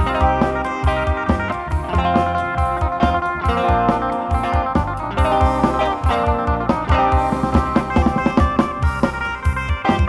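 Live Isan-style band music: an amplified electric phin (Thai plucked lute) playing a lively melody over a drum kit.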